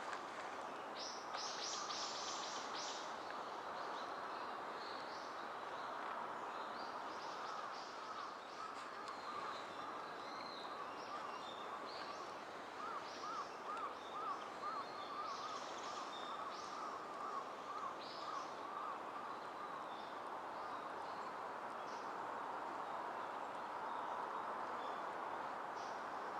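Birds chirping and calling, in short bursts that come and go, over a steady background hiss.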